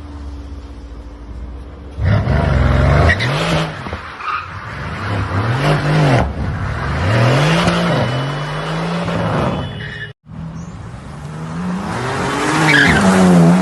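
Car engine revving hard, its pitch rising and falling over and over, with tyres squealing, after a short stretch of steady engine hum at the start.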